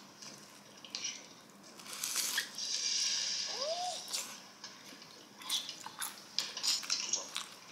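Close-up eating sounds: crunching and chewing on pieces of crispy fried guobaorou, with a longer stretch of crunching in the middle and a run of sharp crackly bites near the end.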